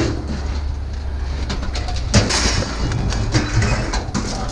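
A steady low engine rumble, with scattered knocks and one sharp clank about two seconds in.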